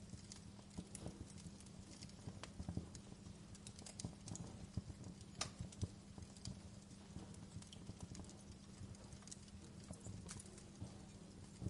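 Wood fire crackling: irregular sharp pops and ticks over a soft, steady low rumble of burning, with one louder pop about halfway through.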